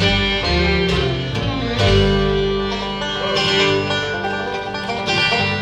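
Live acoustic bluegrass band playing an instrumental passage between vocal lines: banjo and guitar picking over an upright bass, with no singing.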